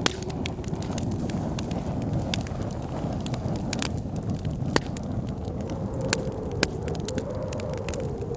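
Wood fire crackling with scattered sharp pops and snaps, over the steady low roar of blizzard wind. A wavering wind howl rises and falls at the start and again from about six seconds in.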